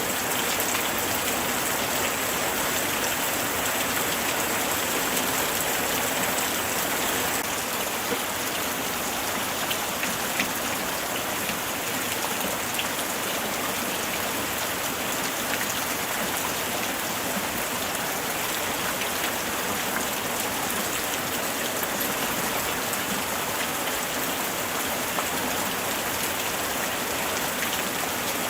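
Steady light rain falling, an even hiss of drops on surfaces with scattered small drop ticks.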